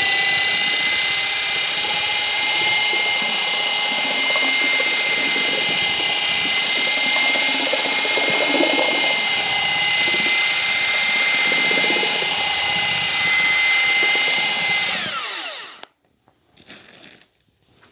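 Electric drill running at steady speed with a homemade wire paddle mixer in its chuck, stirring mortar, a constant high whine. About 15 seconds in it is switched off and winds down, the pitch falling away.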